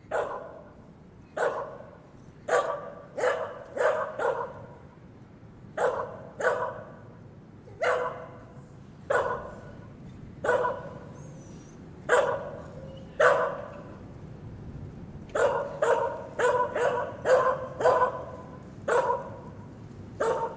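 A dog barking: about twenty short, sharp barks, mostly a second or more apart, with quicker runs of barks in between.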